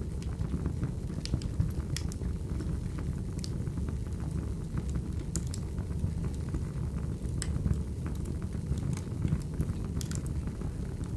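Wood fire crackling: a steady low rumble of burning logs with sharp pops every second or so.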